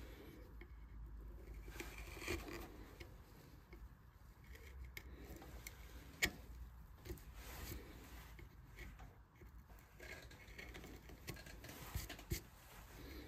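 Wood carving gouge paring a wooden vase by hand: faint, irregular scraping cuts, with a few sharp clicks as the tool bites or sets down.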